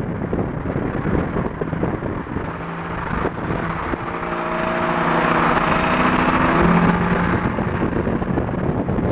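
Car engine running with wind and road noise. From about three and a half seconds in, a pitched engine drone comes up and grows louder, peaking near seven seconds before easing off.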